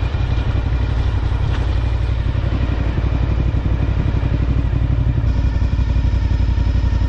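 Motorcycle engine running steadily, with no clear rise or fall in pitch.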